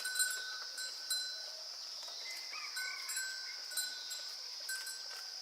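Goats bleating faintly, with a small bell ringing now and then, over a steady high-pitched hiss.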